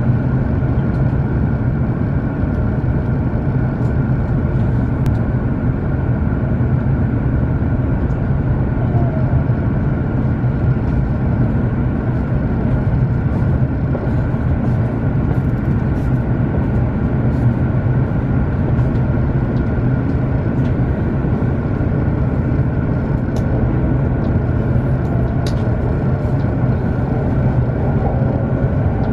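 Cabin noise inside a W7 series Shinkansen train on the move: a steady low rumble of wheels and running gear on the rails, with light scattered ticks. A faint rising whine comes in near the end as the train gathers speed.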